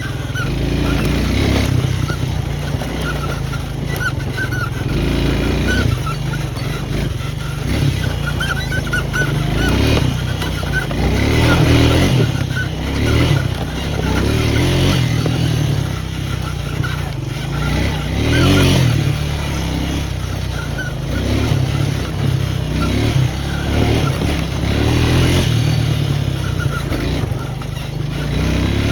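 Small off-road vehicle's engine running under a rider on a trail, the revs rising and falling as the throttle is worked.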